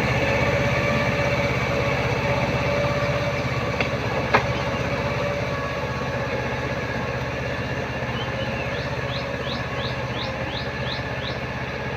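Mahindra Jivo 225 mini tractor's two-cylinder diesel engine running steadily, fading slightly, with a sharp click about four seconds in. Near the end a quick series of about eight short rising chirps sounds over it.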